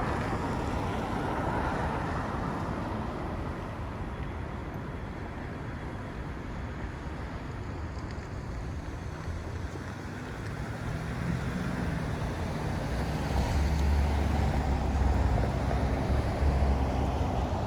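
Downtown street traffic: vehicles passing, with a vehicle's low engine rumble building up about eleven seconds in and staying loud near the end.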